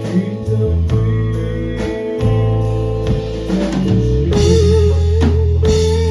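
Rock band playing live, with sustained electric guitar chords and bass over a drum kit keeping the beat. About four seconds in, the bass drops to a lower held note and the cymbals get louder.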